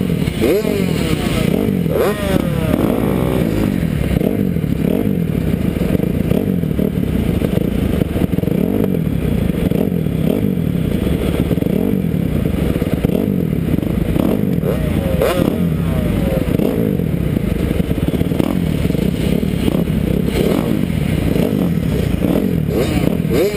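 Kawasaki KX250F four-stroke motocross bike engine, heard from the rider's helmet, revving hard. The pitch rises and falls again and again as the rider accelerates, shifts and backs off, with occasional knocks and rattles from the bike.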